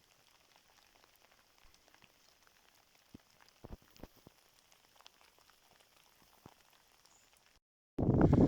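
Faint, scattered raindrops tapping on a surface, a few louder ticks among them. Near the end a loud, steady rushing noise cuts in.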